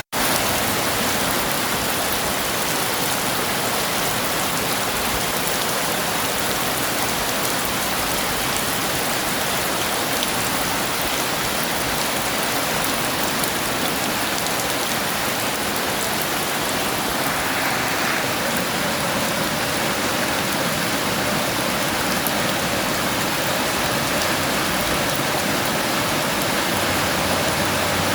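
Heavy rain falling steadily, an even hiss of many drops on surfaces, with no thunder clap standing out.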